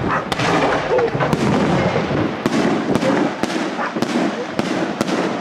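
Aerial fireworks bursting overhead, about two sharp reports a second over a dense continuous crackle and rumble.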